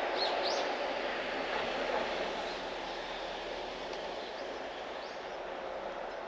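Steady rushing noise of a distant passing vehicle, slowly fading, with a few short high bird chirps about half a second in.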